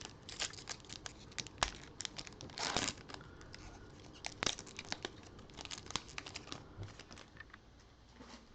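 A foil trading-card pack being torn open and its wrapper crinkled: a scatter of small crackles and clicks, with a longer rip about three seconds in.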